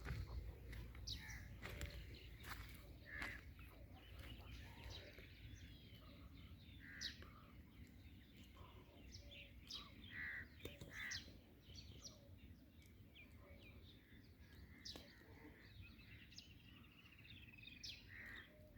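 Faint outdoor birdsong: many birds chirping and calling in short separate notes, with crows cawing now and then, over a low steady rumble.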